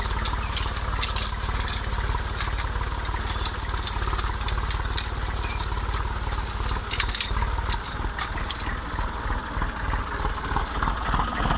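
IMT 539 tractor's three-cylinder diesel engine running steadily with an even low throb, over scattered rattling clicks.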